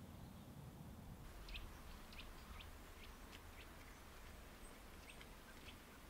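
Faint birdsong: small birds giving short, high chirps a few times a second, starting about a second in, over a low steady background rumble.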